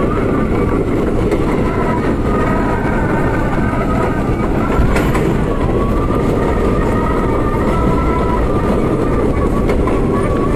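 R32 subway car running at speed: a steady, loud rumble of wheels on rail, with a faint whine that drifts up and down in pitch and a single sharp click about five seconds in.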